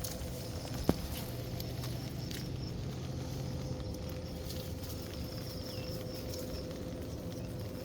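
Steady outdoor patter of rain with a faint steady hum and high insect-like buzz, and one sharp click about a second in.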